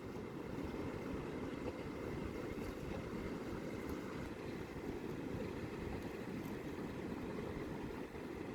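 Steady low rumble of wind and sea surf, with no distinct events.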